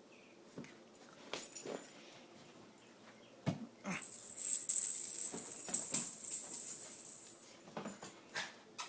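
Scattered light knocks and taps, then a loud, high-pitched rattling rustle from about four seconds in that lasts about three seconds.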